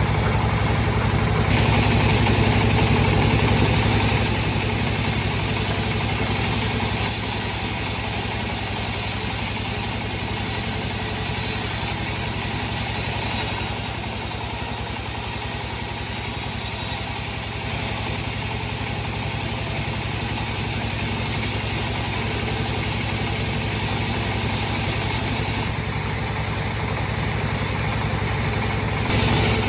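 Sawmill bandsaw machine running with a steady low mechanical drone. A higher hiss comes in and drops out several times over it.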